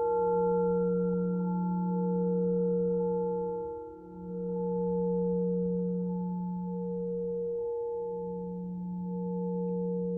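Alchemical crystal singing bowls ringing on in a sustained low tone with fainter higher tones above it, the sound slowly swelling and dipping about every four seconds.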